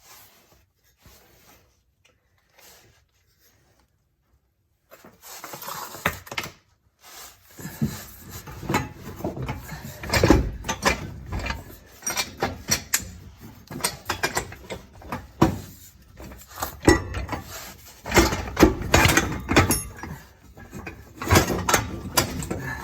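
Irregular metal clanks, knocks and scrapes from steel exhaust pipework being worked loose and shifted under a car. It starts after a few seconds of near silence.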